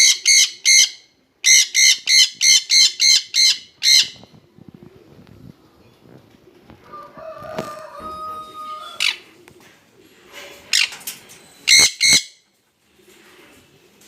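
Jenday conures screeching: loud, harsh calls repeated about three to four times a second in two runs at the start, then a few more single calls near the end.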